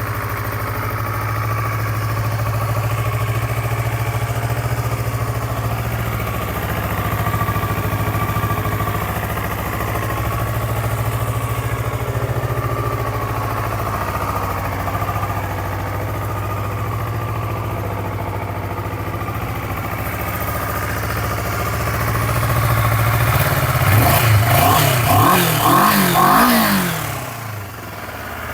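Kawasaki Ninja 400's parallel-twin engine idling steadily, then revved in about four quick throttle blips near the end before settling back to idle.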